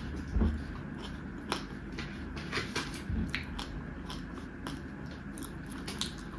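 A person chewing and smacking her lips, with an irregular run of sharp wet clicks and soft squishes as soft rice, mashed taro and fried fish are eaten by hand.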